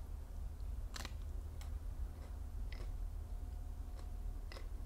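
Close-miked crisp little crunches and clicks of magnolia petals being bitten and chewed, about six of them spaced roughly half a second apart, the sharpest about a second in, over a steady low hum.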